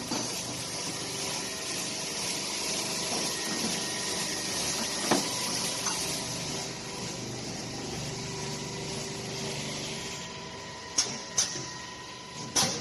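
Automatic copper air-conditioning filter polishing machine running with a steady high hiss, with a sharp click about five seconds in and three sharp clacks near the end.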